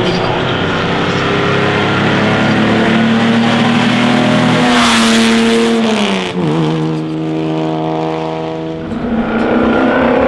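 Classic racing car engine under hard acceleration, running at high revs. Its pitch drops sharply about halfway through, then holds steady and climbs again near the end.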